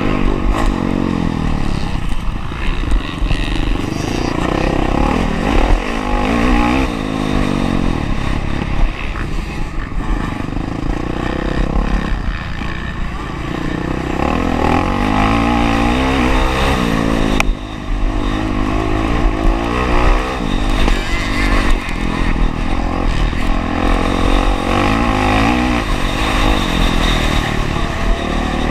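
Honda CRF450R's single-cylinder four-stroke engine revving hard and backing off over and over as the bike is ridden round a motocross track, its pitch rising and falling every few seconds. About two-thirds of the way through the sound drops out sharply for a moment.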